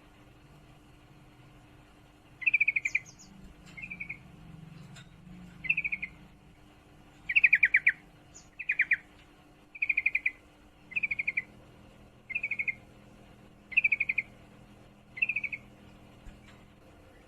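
Female yellow-vented bulbul (trucukan) giving rapid chattering calls, the 'ngriwik' of bird keepers. About ten short bursts come every second or so, starting a couple of seconds in.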